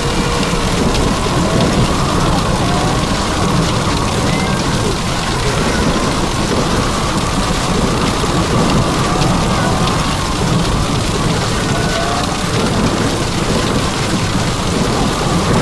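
Heavy rain pouring steadily in a thunderstorm, with a low rumble underneath and no sharp thunderclaps.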